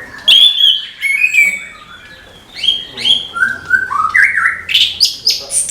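Orange-headed thrush (anis kembang) calling loudly in quick, varied, sharp chirps and sliding whistled notes. There is a short pause about two seconds in, then the notes come thick and fast.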